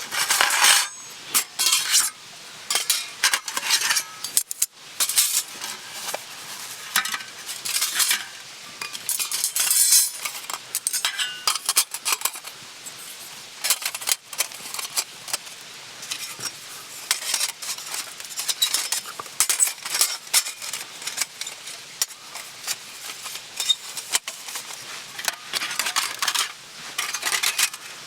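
Metal cookware and utensils clinking, knocking and scraping irregularly, with some strokes ringing briefly.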